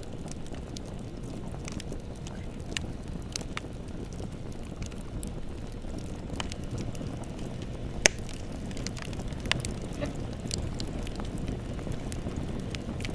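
Bonfire burning: a steady low rush of flames with scattered crackles and pops from the burning wood, one sharp pop about eight seconds in.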